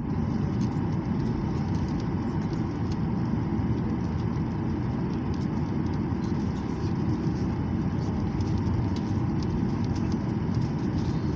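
Airplane on the runway: a steady, even low rumble that holds unchanged throughout.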